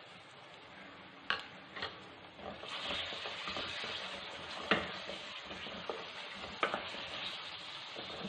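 Chicken pieces and shredded cabbage sizzling in oil in an aluminium kadai while being stirred with a spatula, which knocks sharply against the pan about five times. The sizzle grows louder a couple of seconds in, once the stirring starts.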